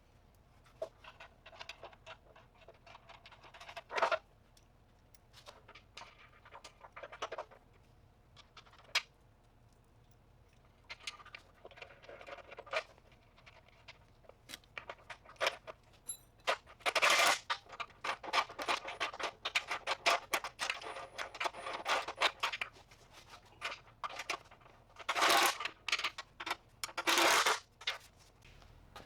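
Hand work on metal parts: tools and small metal pieces clinking, knocking and scraping in short irregular bursts, with a few longer, louder scraping strokes in the second half.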